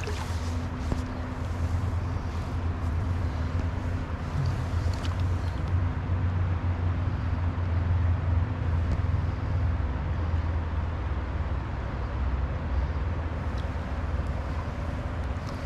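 Steady rushing of a flowing stream with a deep, even low rumble and no clear breaks.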